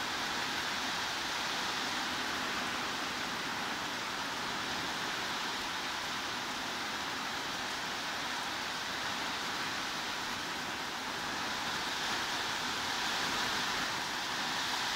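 Heavy rain falling steadily, a continuous even hiss with no separate drops or thunder standing out.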